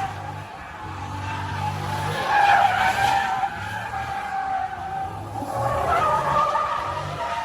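Car tires screeching as the wheels spin under power, with the engine running hard underneath. The squeal wavers in pitch and swells about two and a half seconds in and again near the end.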